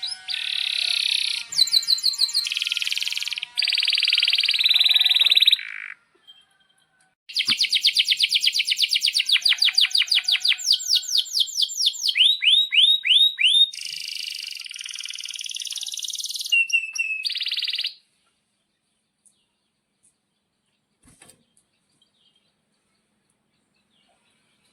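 Male domestic canary singing fast trills and rolling phrases. The song comes in two stretches, with a short break about six seconds in, and stops about eighteen seconds in.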